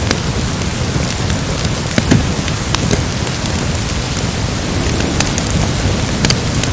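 Steady rain over a continuous low rumble, with a few sharp crackles from a wood fire scattered through.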